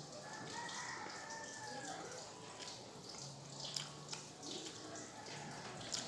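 Faint chewing with wet mouth clicks and lip smacks from someone eating soft noodles, rice and fried egg by hand, with a few sharper smacks in the second half.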